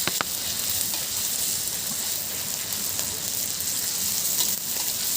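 Fish frying in hot oil, a steady sizzle, with a couple of sharp clicks right at the start.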